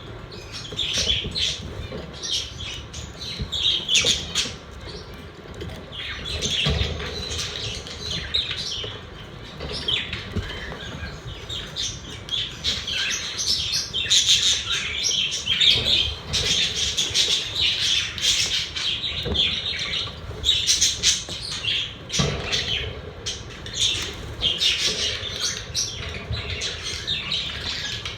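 Pet budgerigars chirping and chattering continuously, several birds' calls overlapping.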